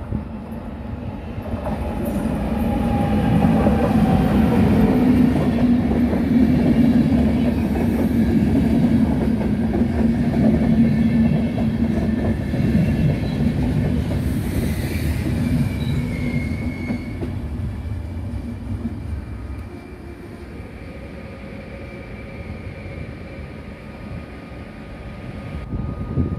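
Electric locomotive-hauled passenger train of yellow RegioJet coaches pulling in and passing close by, a heavy rolling rumble that builds over the first few seconds and then dies away as the train slows to a stop at its terminus. Wheels squeal with a few thin high tones about halfway through.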